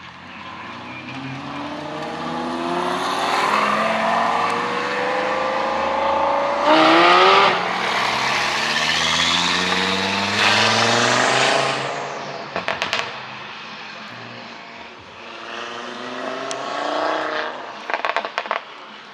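A performance car's engine revving hard as it accelerates away, pitch climbing through the gears with a shift about seven seconds in, then fading. A second car revs up near the end, and there are quick clusters of sharp cracks about twelve and eighteen seconds in.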